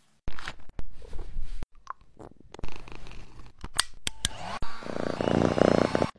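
Domestic cat purring in several short stretches broken by abrupt cuts, the longest and loudest near the end.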